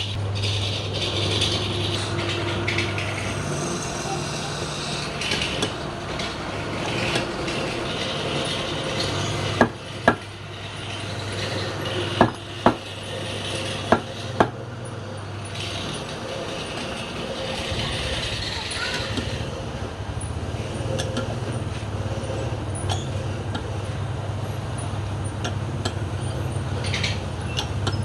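Wood lathe running with a steady motor hum while a turning tool scrapes and cuts palm wood in hissing passes, with a few sharp knocks about ten to fifteen seconds in.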